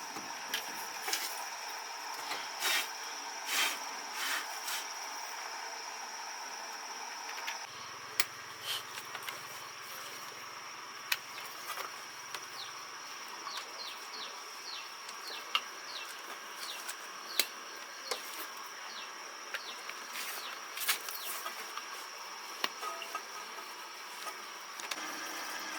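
Steady high-pitched insect trill, like crickets, with scattered light clicks and taps over it. The background changes abruptly about eight seconds in.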